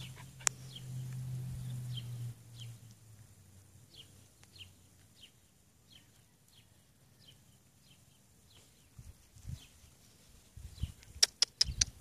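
Faint high chirps from a small bird, short falling notes about two a second, with a low steady hum fading out over the first two seconds or so. Near the end comes a quick run of sharp clicks.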